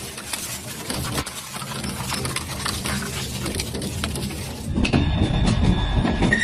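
Double-shaft shredder grinding and crushing material, a dense run of rapid clattering and cracking. About three-quarters of the way through the sound changes abruptly to a louder, deeper grinding with a faint high whine.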